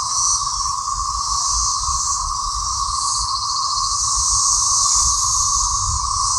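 Loud chorus of many cicadas buzzing without a break: a steady high buzz over a lower steady drone, with a low rumble underneath.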